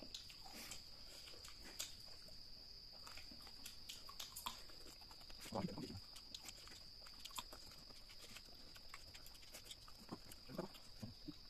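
Close-up eating sounds of two people chewing chicken feet and rice by hand: irregular wet mouth clicks and lip-smacking, with a steady high-pitched whine behind.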